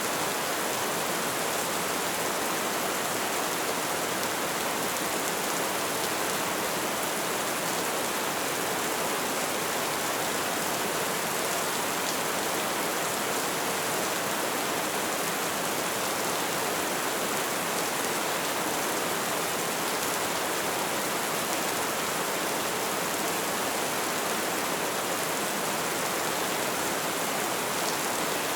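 Light rain falling in a steady, even hiss with no single drops standing out.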